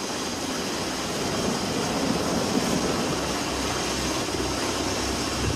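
Carrier jet's engines running at high power, a steady roar with a faint high whine, just after an arrested landing on the deck.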